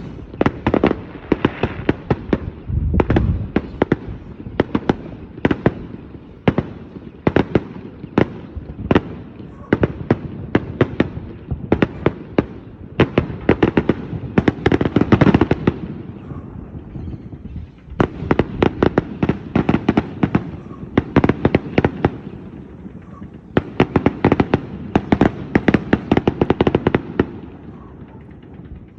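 Aerial fireworks going off in rapid clusters of sharp, crackling bangs, with short lulls between volleys and a deeper boom about three seconds in.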